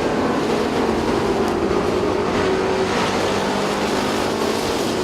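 Street stock race cars' engines running steadily on the oval track, a continuous engine drone.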